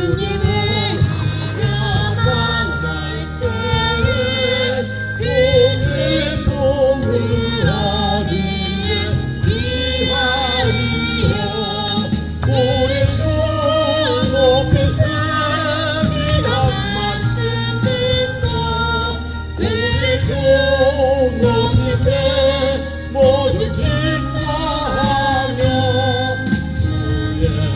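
A Christian gospel song sung by a solo voice with vibrato over instrumental accompaniment.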